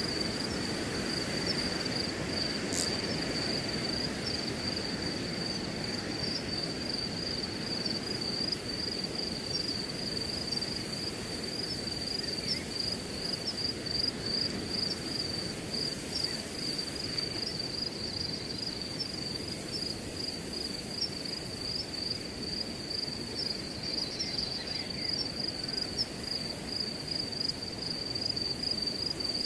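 Crickets chirping in a steady, unbroken high-pitched trill over a soft, even rush of wind in grass.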